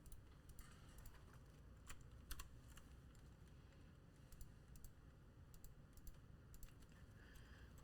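Faint, scattered keystrokes and clicks on a computer keyboard, a few irregular taps spread over several seconds.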